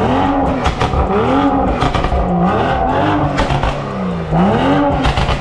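Sports car with a loud exhaust being revved in place: about four quick blips, the engine note rising and falling each time, with crackles and pops as it comes off the throttle.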